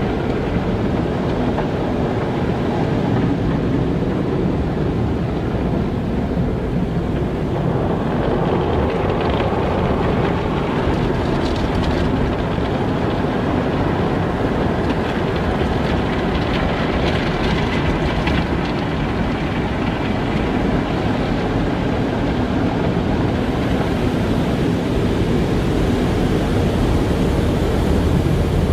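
Car wash running: a steady, loud rumble of machinery and spraying water, with more hiss coming in about three-quarters of the way through.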